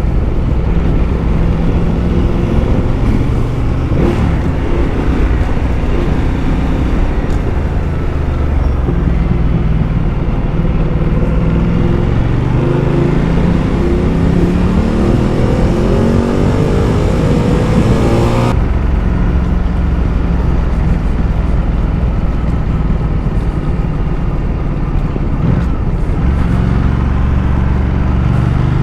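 Ducati Multistrada motorcycle engine running under way, with a steady rush of riding wind; about a third of the way in the engine note climbs steadily as the bike accelerates, and about two-thirds in the high hiss drops away suddenly.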